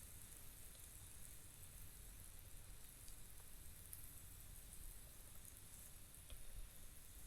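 Near silence: a faint steady hiss with a low rumble and a few soft clicks.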